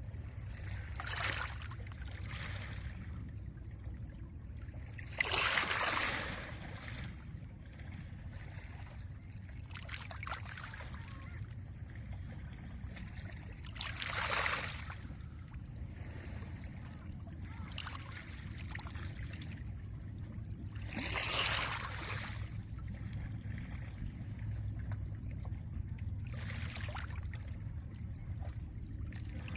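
Small lake waves breaking on a pebble shore and washing back over the stones, under a steady low rumble of water and wind. The waves arrive irregularly, every few seconds, with the biggest washes about five, fourteen and twenty-one seconds in.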